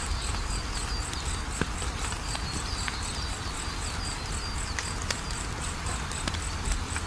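Wood fire crackling, with sharp pops now and then over a low rumble, while crickets chirp steadily at about four to five pulses a second.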